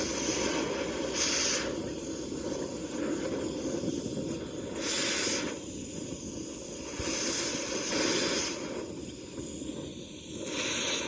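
Gas cutting torch hissing steadily, with several short surges of sharper hiss, as it cuts a seized bearing off a combine final-drive shaft.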